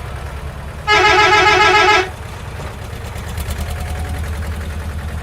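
A vehicle horn honks once for about a second, over a steady low engine-like rumble.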